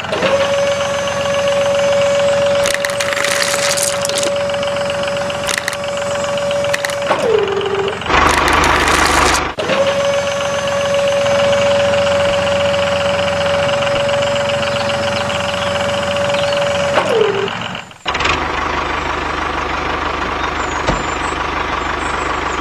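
A small motor running with a steady, even whine that drops in pitch as it stops, twice, with a louder rough noisy stretch of about a second and a half between the two runs.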